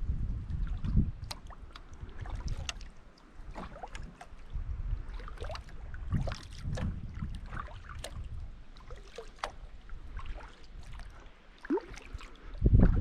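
Kayak paddle strokes in lake water: the blades dipping and swishing, with water splashing and dripping off them. A low rumble comes and goes every couple of seconds.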